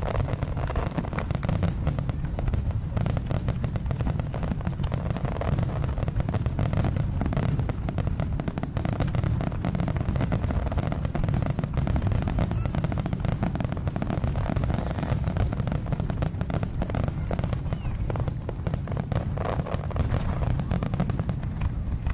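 Fireworks display: a dense, unbroken barrage of bangs and crackles over a low rumble, with voices talking underneath.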